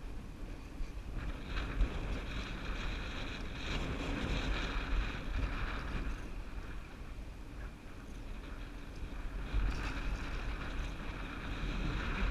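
Wind gusting across the microphone over the sound of a canoe moving on the river, swelling twice.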